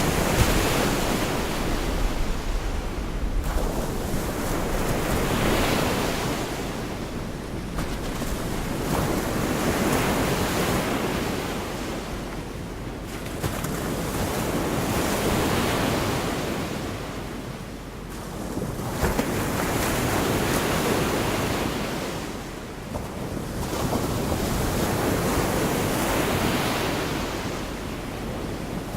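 Gulf of Mexico waves washing ashore, the surf swelling and fading every four to five seconds, with wind noise on the microphone.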